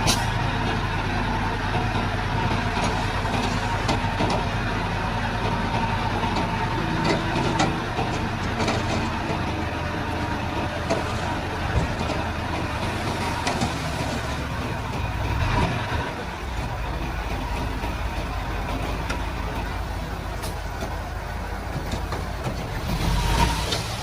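Komatsu D31-P bulldozer's diesel engine running steadily while working, with its low drone shifting about two-thirds of the way through and a few short sharp knocks.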